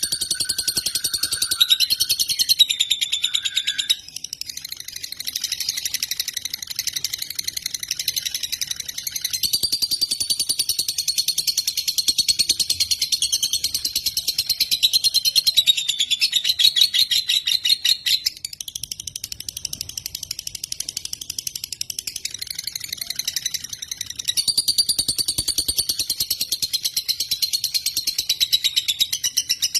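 Lovebird singing a long, almost unbroken high-pitched chattering trill of very rapid ticks, wavering in pitch, dipping briefly a few seconds in and again past the middle.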